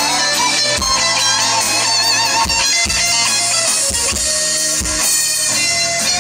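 Live rock band playing an instrumental passage: a guitar melody over drums and bass, with a steady beat.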